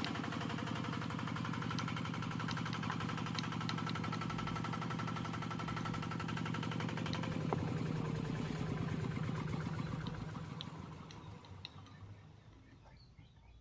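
Miniature genset model running with a steady, rapid pulsing, then slowing and fading away over the last few seconds.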